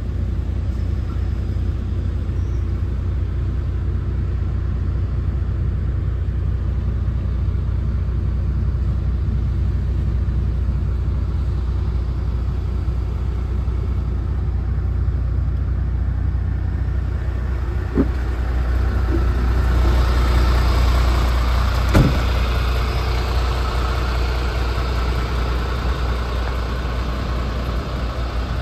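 MAN TGX 26.470's 12.4-litre straight-six diesel running at idle, a steady low rumble. The engine sound grows louder and brighter for a few seconds about two-thirds of the way through, with two sharp clicks.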